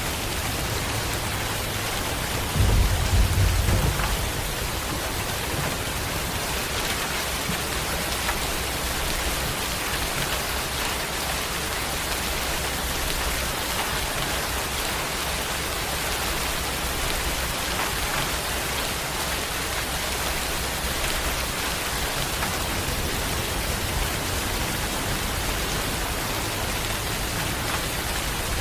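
Steady rain falling, an even hiss of drops. About two and a half seconds in, a low rumble swells briefly and then fades under the rain.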